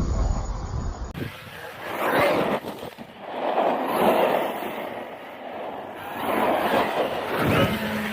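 Team Corally Asuga XLR RC truck driving in quick cuts, its motor and tyres swelling and fading as it passes several times.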